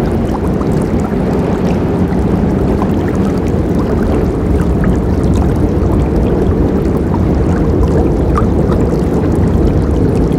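Forest river flowing: a steady, deep rush of water, with small splashes scattered through it.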